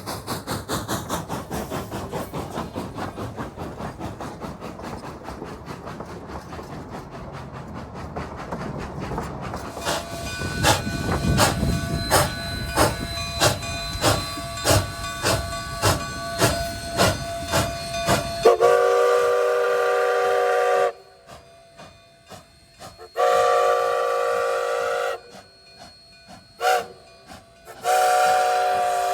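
Steam locomotive exhaust chuffing, first fading away, then slow, heavy beats about once a second, from the coal-fired D&RGW K36 2-8-2 locomotive 487 working its train. About two-thirds of the way in, its chime whistle sounds long, long, short, long, the grade-crossing signal.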